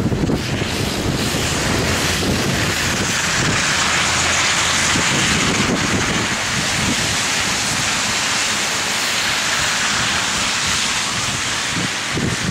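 Strong blizzard wind blowing loose snow, a steady rushing hiss that swells through the middle, with gusts buffeting the microphone in low rumbles near the start and near the end.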